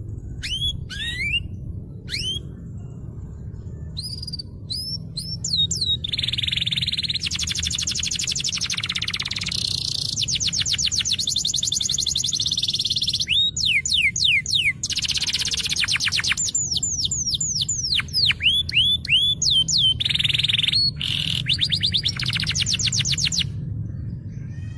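Domestic canary singing: a series of sweeping chirps, then from about six seconds in long, very fast trills alternating with runs of rapidly repeated swept notes, with the song easing off near the end.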